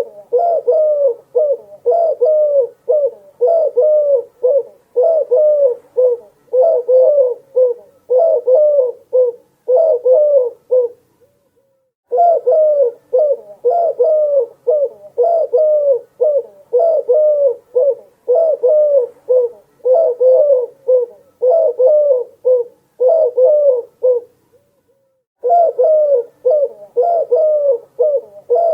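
Dove cooing: a fast run of low coos, about one every 0.7 seconds, broken by two brief pauses, one about 11 seconds in and one about 24 seconds in.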